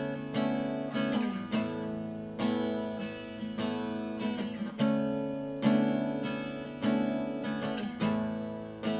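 Acoustic guitar strumming chords in an instrumental break, each strum ringing out and fading before the next, about one or two strums a second.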